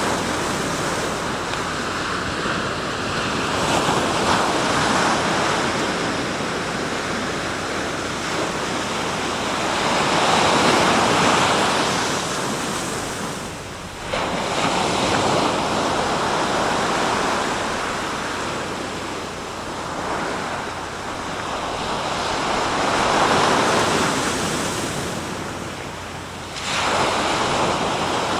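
Sea surf: waves breaking and washing in a continuous rush. It swells louder twice, and twice it drops briefly before coming back suddenly.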